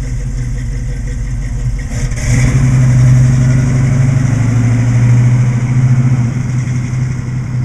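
Small-block Chevy 350 V8 with headers and Flowmaster exhaust running, its steady low exhaust note getting louder about two seconds in.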